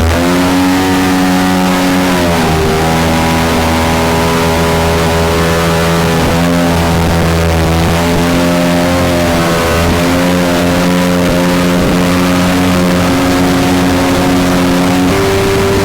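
Mini jet boat's engine running hard under way with a steady pitch, which dips briefly about two and a half seconds in and shifts again near the end.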